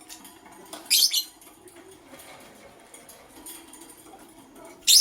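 Lovebirds calling: two short, loud, shrill chirps, one about a second in and one at the end, with fainter chatter between.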